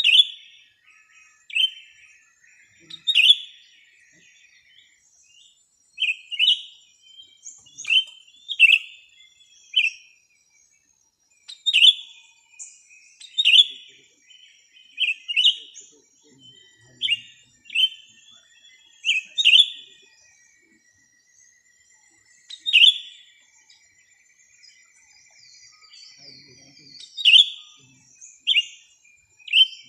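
Small birds calling: short, sharp chirps that drop quickly in pitch, coming every second or two at irregular spacing, with a faint thin steady high tone behind them.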